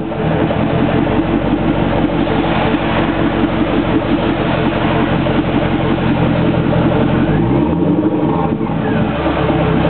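1997 Chevrolet C5 Corvette's LS1 V8 idling steadily through its dual exhaust, then revved once about three-quarters of the way in, the pitch rising and falling back. A second rev begins right at the end.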